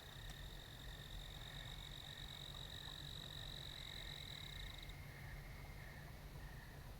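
Night chorus of trilling calls in a meadow: a steady, high-pitched trill that cuts off suddenly about five seconds in, over a fainter, lower trill that comes and goes, with a faint low rumble beneath.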